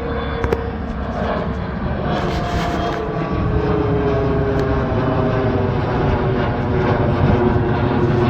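Jet airliner passing low overhead: its engine whine slides slowly down in pitch while the low rumble grows louder.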